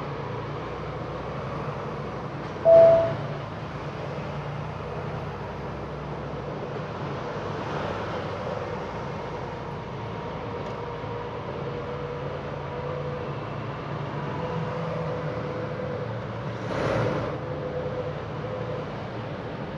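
Tractor-trailer cab interior while driving: the truck's engine hums and road noise runs steadily. A short, loud beep sounds about three seconds in, and a brief swell of noise comes near the end.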